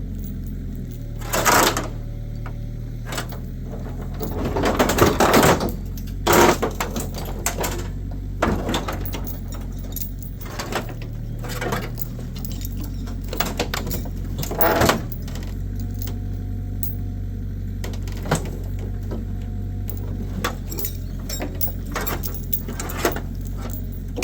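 Excavator engine running steadily, its pitch stepping up and down as the hydraulics take the load of the pull. Over it the crushed Camry's body panels crack, creak and bang irregularly as the rear end is pulled out, loudest about four to six seconds in.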